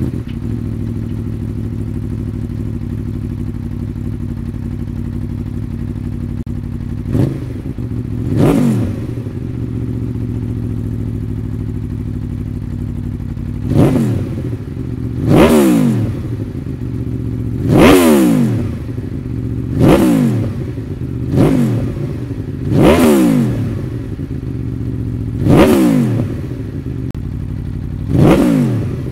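Aprilia Tuono V4 Factory's 1077 cc V4 engine through an Akrapovič slip-on exhaust, idling steadily. From about seven seconds in it is revved in about ten short throttle blips, each rising in pitch and dropping back to idle.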